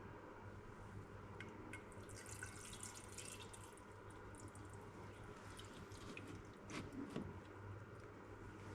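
Faint, irregular drips and small clicks of hydraulic oil dripping, over a steady low hum.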